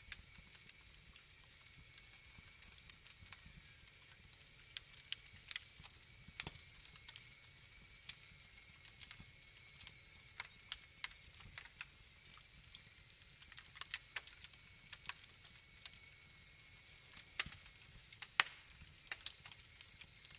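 Wood fire crackling: irregular sharp pops and snaps over a faint steady hiss, with a cluster of pops about two-thirds of the way through.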